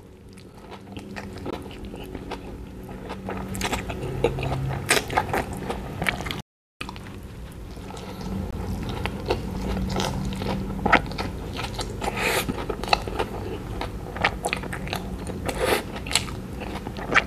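Close-miked biting and chewing of a soft-bun jumbo sausage hot dog loaded with shredded raw vegetables: irregular wet crunches, smacks and mouth sounds. The sound cuts out briefly about six seconds in.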